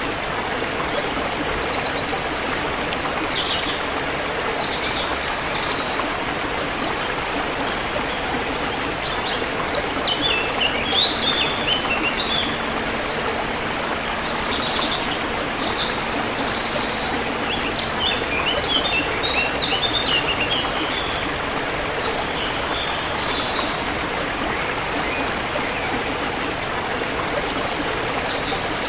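Forest river water flowing steadily, with small birds chirping over it in quick runs of short notes, busiest about a third of the way in and again about two-thirds in.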